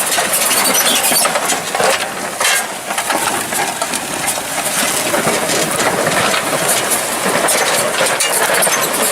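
Tractor engine running steadily as it pulls a reversible plough through stony ground, with frequent clinks and rattles.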